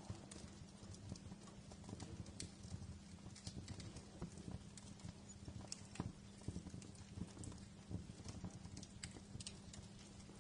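Fireplace fire crackling: irregular sharp pops and snaps over a low, steady rumble, with a louder pop about six seconds in.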